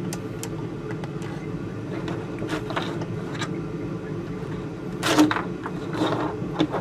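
Steady low mechanical hum with scattered sharp clicks and knocks, the loudest about five seconds in.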